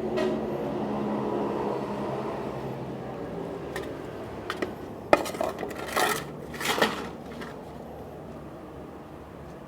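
A steady engine hum fades away over the first few seconds. Then come a few sharp clattering knocks, the loudest clustered about five to seven seconds in.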